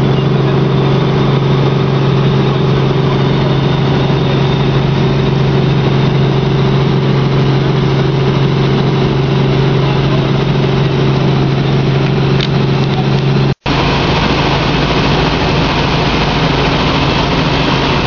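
Helicopter engine and rotors running steadily, a loud drone with a strong low hum, heard from inside the cabin. Near the end the sound cuts out for an instant and resumes with a rougher, less humming quality.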